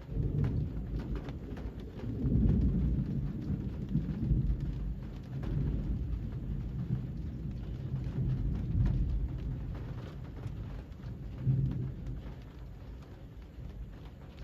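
Rolling thunder, a deep rumble that starts suddenly, swells twice and fades near the end, over steady rain with scattered drops.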